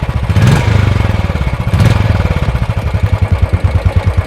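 Royal Enfield Classic 350 BS6 single-cylinder engine running through its stock silencer. It is revved up twice, about half a second in and again near two seconds, then settles back to a steady thumping idle.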